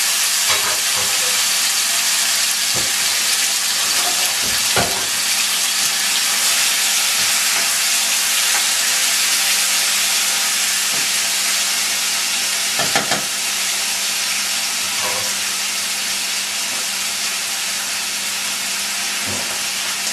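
Diced tomatoes sizzling steadily in hot olive oil in a small stainless saucepan, with a few light knocks as they are stirred.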